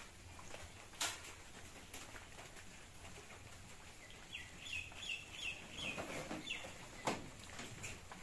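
A bird chirping in a quick run of short high notes from about halfway through, over a faint outdoor background. Two sharp knocks, one about a second in and one near the end.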